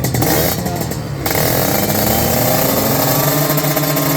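Motorcycle engine running, coming in suddenly and louder about a second in, then holding a steady engine speed.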